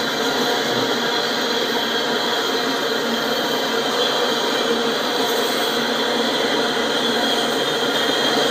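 Freight train cars, covered hoppers, rolling steadily past: a continuous rushing noise of steel wheels on rail.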